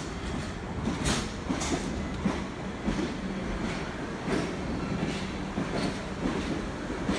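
R62 subway train running on the rails, its wheels clacking over rail joints about once or twice a second over a steady motor hum.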